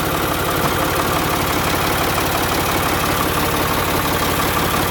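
An engine running steadily at low speed, pushing a non-running Ford 335 tractor slowly up onto a trailer.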